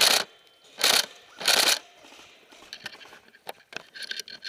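Airsoft electric rifle firing three short bursts in quick succession, each a fraction of a second long, followed by a few scattered sharp clicks.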